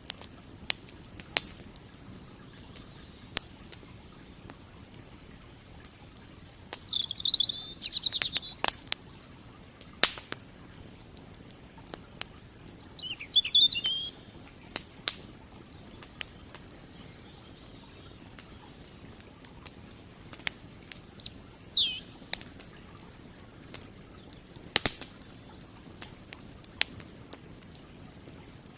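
Wood campfire crackling, with irregular sharp pops of burning firewood, over the faint steady flow of a creek. Birds chirp in short bursts three times.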